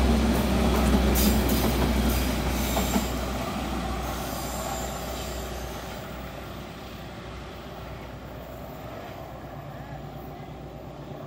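Train passing close by, its wheels clicking over the rail joints, then fading away over the second half.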